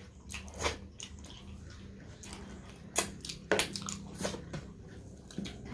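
Eating sounds of a rice-and-daal meal: wet chewing and mouth smacks with a handful of short sharp clicks, over a faint steady low hum.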